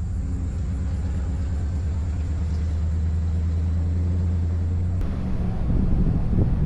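Car driving, heard from inside the cabin: a steady low road and engine rumble, which shifts in tone about five seconds in.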